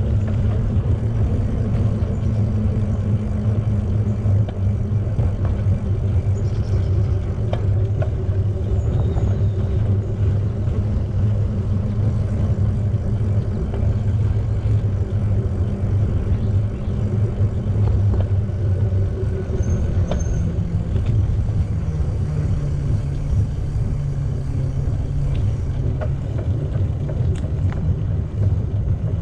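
Steady low rumble of wind and tyre noise on the microphone of a camera riding along on a moving bicycle.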